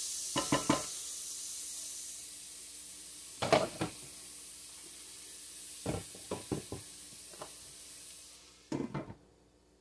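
Grated carrots, onion and garlic sizzling in oil in a pot: a steady hiss that slowly fades and stops near the end, with a few light knocks in between.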